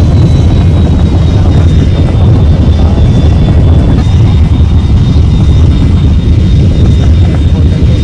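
Jet airliner flight noise as heard in the cockpit: a loud, steady rumble with a thin high whine held over it.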